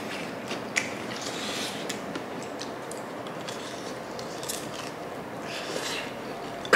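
Close-up chewing of a dumpling: soft wet bites, smacks and small mouth clicks. A sudden louder knock right at the very end.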